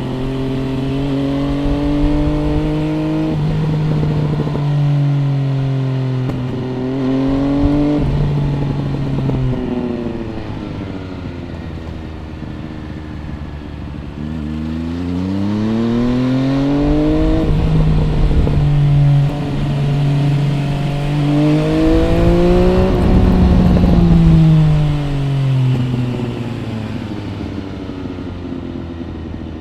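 MV Agusta Brutale 800 RR's inline three-cylinder engine through an MV Agusta Corse trio exhaust, heard onboard while riding. The engine pitch holds with short shift breaks, drops away as the throttle closes about ten seconds in, then climbs twice under acceleration and falls off again near the end.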